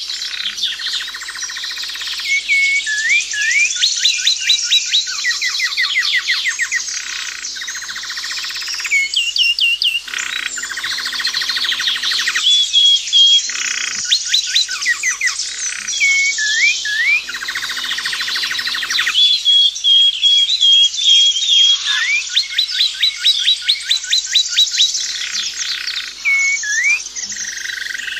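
Songbirds singing together: a chorus of rapid chirping trills and short whistled notes that repeat over and over.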